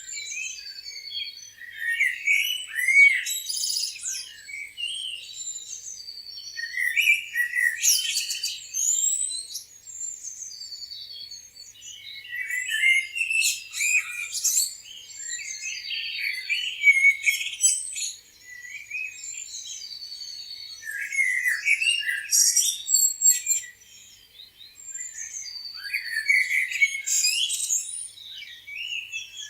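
Several songbirds chirping and singing together, short high chirps, trills and whistled notes overlapping in bursts that come and go every few seconds.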